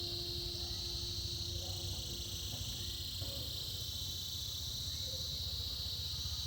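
Cicadas buzzing in a steady, unbroken high-pitched chorus over a low rumble, with a faint steady hum underneath that stops about halfway through.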